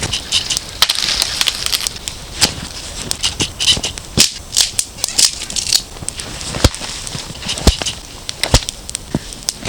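Campfire of damp wood catching, crackling with irregular sharp pops and snaps and short hissing bursts.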